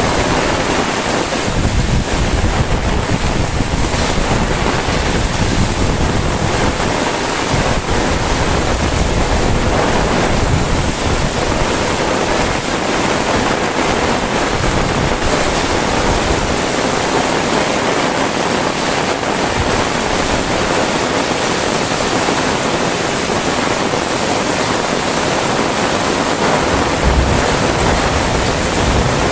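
Heavy rain falling steadily, with gusts of wind buffeting the microphone in low rumbles that come and go.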